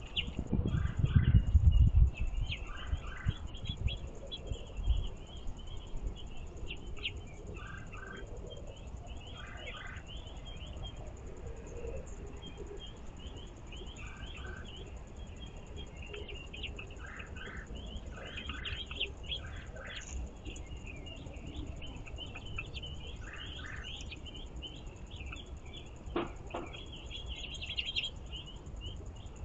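Songbirds chirping and calling: many short high chirps, with short lower notes in pairs repeating every few seconds. A loud low rumble with thumps in the first two seconds.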